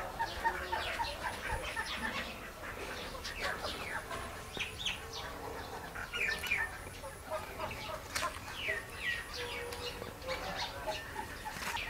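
Several birds chirping and calling, many short falling chirps overlapping one another throughout.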